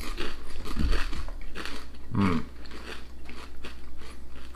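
Two people crunching and chewing mouthfuls of potato crisps, with many small crackling bites, and a hummed "mmm" about two seconds in.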